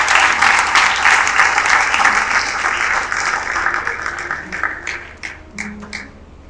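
Audience applauding: dense clapping that thins to a few scattered claps about four seconds in and dies away near the end.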